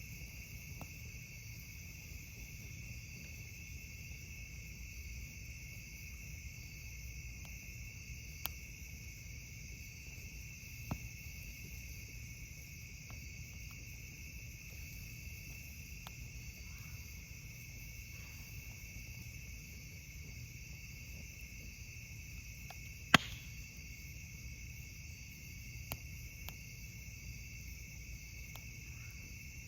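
Night insects trilling steadily, with a few scattered sharp pops and crackles from a wood campfire; the loudest pop comes about three quarters of the way through.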